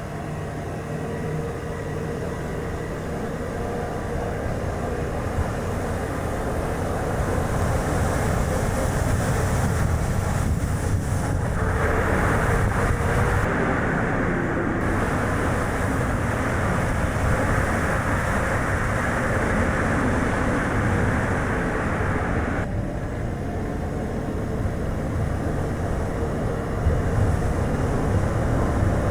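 Chevrolet Spark light car driving, a steady rush of tyre noise and wind buffeting that grows louder over the first several seconds. A harsher hiss joins for about ten seconds in the middle and then cuts off suddenly.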